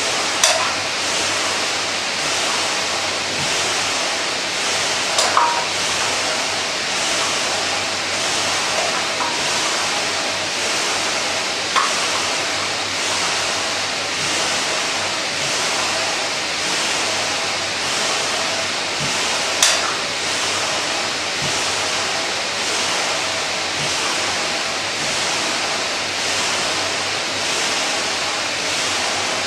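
Air-braked flywheel of a kayak paddling ergometer whirring with a steady rush of air that swells and fades in an even rhythm. A few sharp clicks come through now and then.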